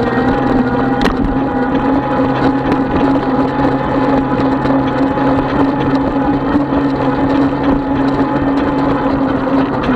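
36-volt electric bike motor whining at a steady, even pitch while riding, over continuous rumble from the tyres and road. A few faint clicks and rattles come through.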